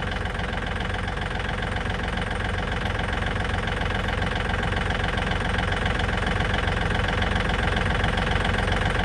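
Tractor engine running steadily, gradually getting a little louder.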